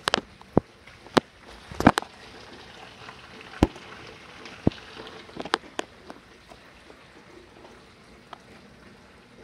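Heavy thunderstorm rain as a steady hiss, heard through a window, with irregular sharp taps, most of them in the first six seconds.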